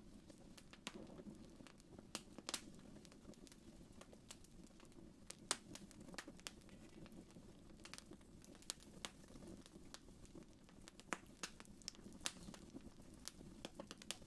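Quiet wood fire crackling: irregular sharp pops and snaps, several a second, over a soft low rumble of the flames, with the loudest pop about five and a half seconds in.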